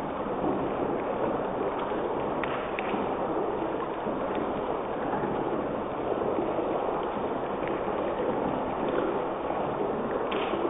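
Chicken pieces frying in oil in a pan on a gas stove: a steady sizzle with a few faint pops.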